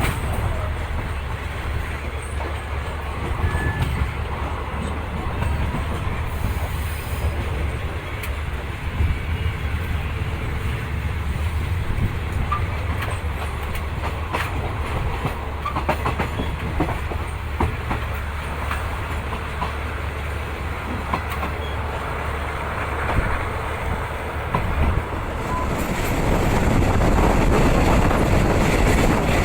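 A moving passenger train heard from inside a Thai third-class coach: a steady low rumble with scattered sharp wheel clicks over the rails. The noise grows louder about 26 seconds in.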